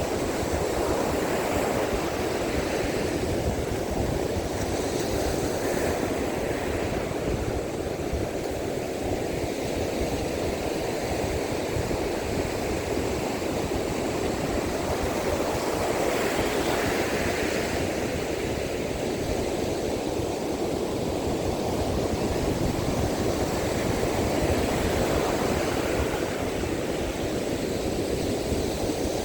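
Rough sea surf washing onto the beach in strong monsoon wind, a steady rush of waves that swells and eases every few seconds, with wind buffeting the microphone.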